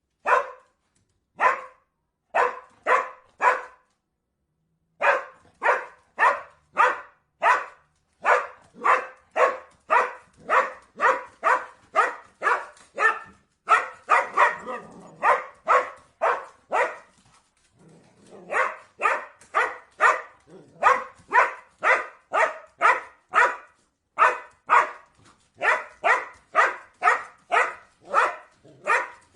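A dog barking over and over in a steady rhythm, about two barks a second. It breaks off briefly twice, a few seconds in and again about two-thirds of the way through.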